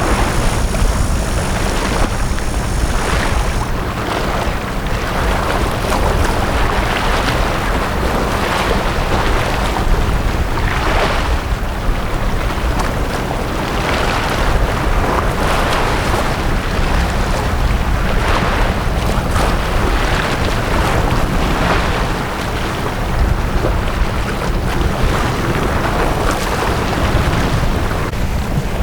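Sea waves washing onto a beach in repeated swells every second or two, over a steady low rumble of wind on the microphone.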